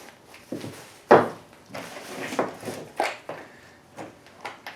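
Rummaging through tools and parts: a string of knocks and clatters as objects are picked up and set down, the loudest a little over a second in.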